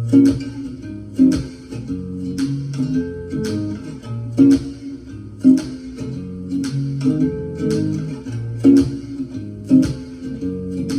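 Instrumental guitar intro playing back from a vinyl record: a repeating plucked figure over low bass notes, with sharp accents about once a second, starting abruptly.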